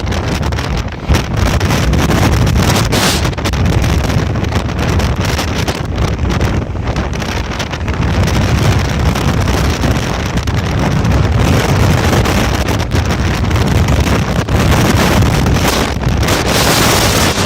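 Strong gusting wind buffeting the microphone: a loud, continuous rush with heavy low rumble that swells and eases with the gusts.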